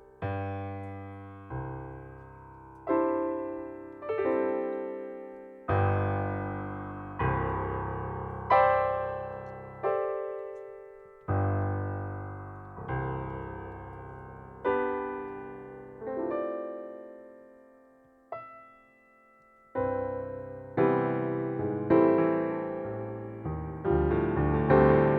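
Background piano music: slow chords struck about every second and a half, each left to ring and fade, with a short near-silent pause about eighteen seconds in before the chords resume, coming closer together near the end.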